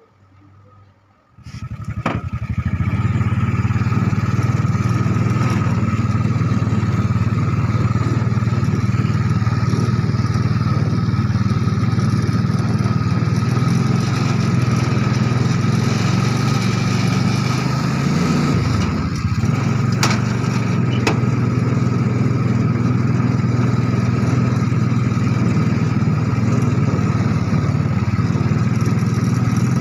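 Small motorcycle engine from a motor-tricycle, fitted in a homemade mini Jeep, starts up about a second and a half in and then runs steadily, with a brief drop and recovery in pitch past the middle.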